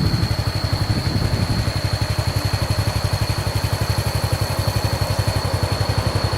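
Small motorcycle engine idling, a steady low putter of about ten beats a second.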